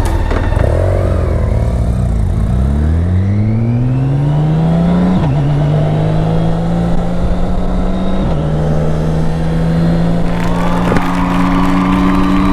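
BMW K1600B's inline-six engine pulling away and accelerating, its note rising steadily and then dropping at two upshifts, about five and eight seconds in, before it settles to a steady cruise.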